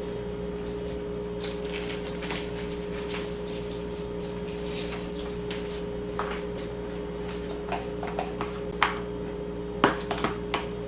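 A spoon scraping and clinking now and then against a pan while food is stirred with seasoning, with a few sharper knocks near the end, over a steady low kitchen hum.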